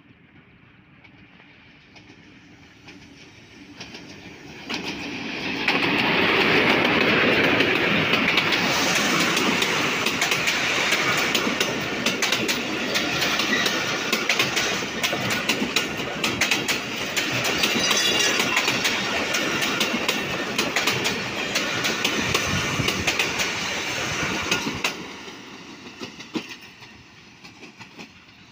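Diesel-hauled passenger train passing close at speed. It grows louder from about four seconds in as the locomotive goes by, then the coaches' wheels clatter over the rail joints for nearly twenty seconds, and the noise falls away sharply near the end as the last coach passes.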